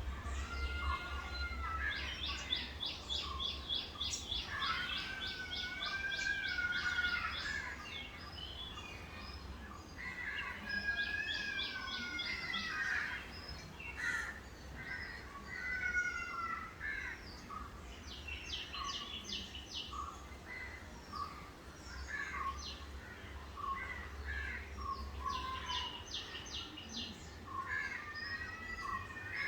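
Several birds singing and calling together: fast rattling trills that come in bursts every few seconds, mixed with rising and falling whistled notes. A low background rumble runs underneath.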